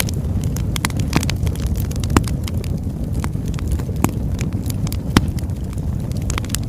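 Oak logs burning in a fireplace: a steady low rumble of flame with frequent sharp crackles and pops, the loudest pops about two seconds and five seconds in.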